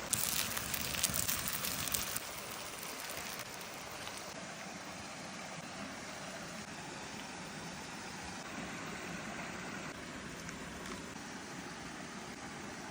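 Fish meatballs sizzling on a hot stone slab, with louder crackling for the first two seconds, then a steadier hiss.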